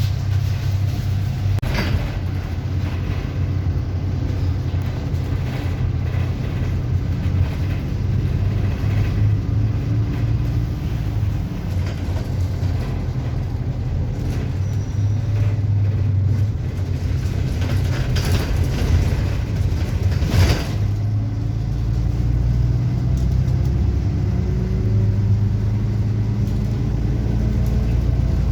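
Bus engine running with a steady low drone, its pitch rising a few times in the second half as the bus accelerates, with a couple of sharp knocks, one about two seconds in and another about twenty seconds in.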